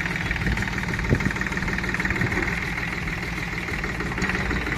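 Force Abhiman 27 hp mini tractor's diesel engine idling steadily, with a single sharp knock about a second in.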